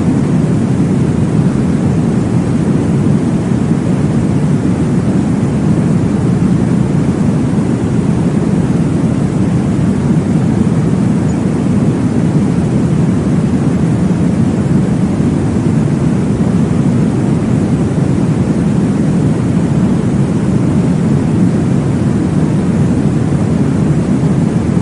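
Steady, deep whooshing noise, heaviest in the low range, with no breaks or changes: a sleep-noise track of the womb-sound kind.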